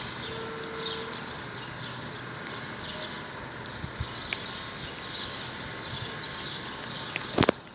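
Birds chirping over and over in quick short notes, with one sharp knock near the end.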